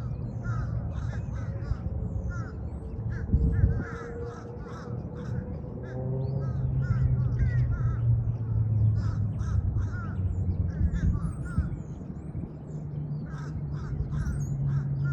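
Birds calling with many short, repeated chirps over a steady low rumble, with a single thump about three and a half seconds in.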